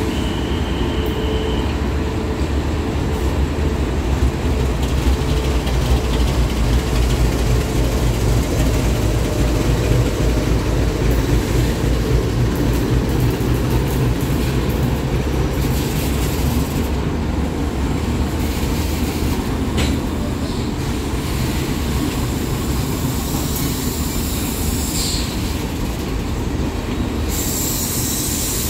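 Rajdhani Express passenger train running on the rails, a steady loud rumble of wheels and coaches. A brief high wheel squeal comes about a second in.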